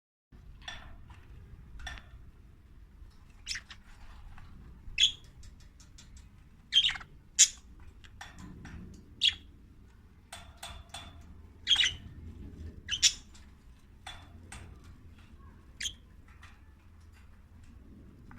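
Budgerigars giving short, sharp chirps and squawks: about a dozen separate calls spaced irregularly with pauses between them, over a faint low background noise.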